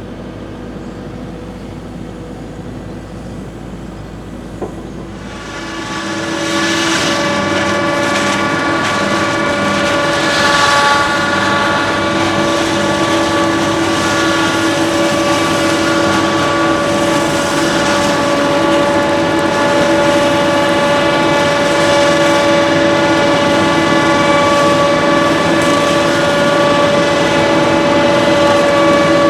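Heavy diesel machinery running: a steady hum that rises about six seconds in to a louder, steady high-revving run with a strong whine.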